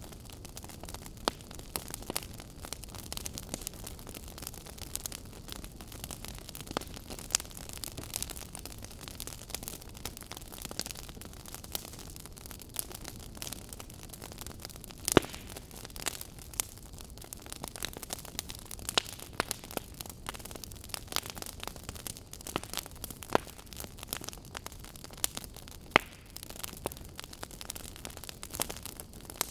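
Wood fire burning with a steady low crackle and frequent sharp, irregular pops and snaps of burning firewood, a few louder pops standing out.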